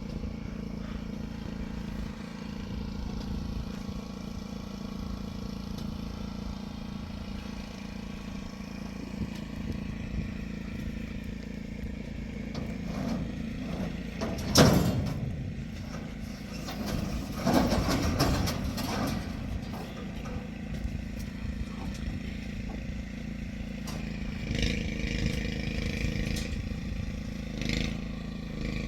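Delivery truck's engine idling steadily. About halfway through there is one loud impact, and a burst of clattering follows a few seconds later.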